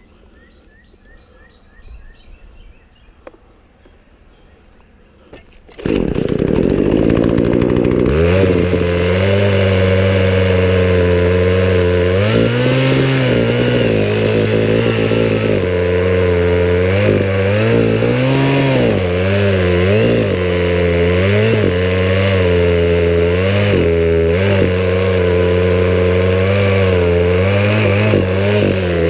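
Poulan Pro two-stroke chainsaw starting about six seconds in, revving up over a couple of seconds, then running with its engine speed repeatedly dropping and rising again.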